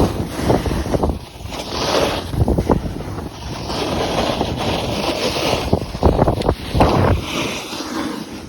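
Wind buffeting the microphone in uneven gusts, with low rumbling thumps.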